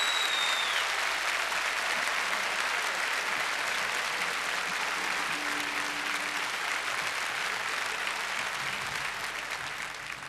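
Audience applauding steadily, beginning to die away at the very end. A high whistled note trails off in the first second.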